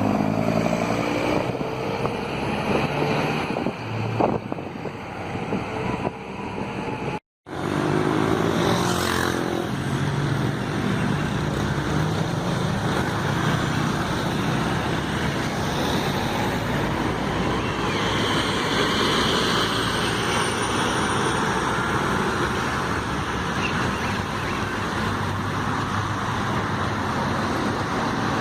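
Diesel engine of a Scania K270 city bus running as the bus drives past in street traffic, its pitch rising and falling, over steady road and tyre noise. The sound breaks off for an instant about seven seconds in, then resumes.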